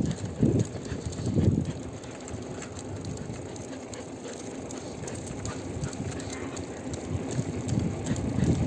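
Bicycle riding along a road, a steady rolling noise with scattered light clicks, and a few strong low thumps about half a second in, about a second and a half in, and again near the end.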